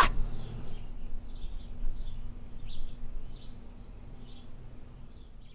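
Small birds chirping faintly and sporadically over a steady low background rumble, the whole fading out near the end.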